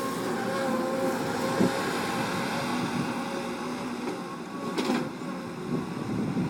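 Bulldozer engine running steadily, with a short sharp knock about five seconds in.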